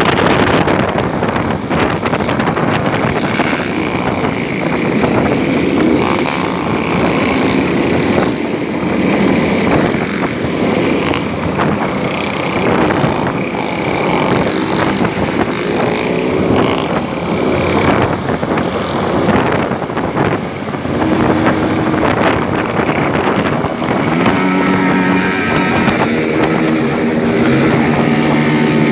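Motorcycle engine running while riding, its pitch rising and falling with throttle and gear changes, under heavy wind noise on the microphone.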